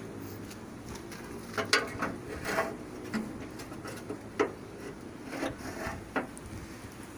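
A few light, irregular knocks and clicks, a second or two apart, over a low steady background hum.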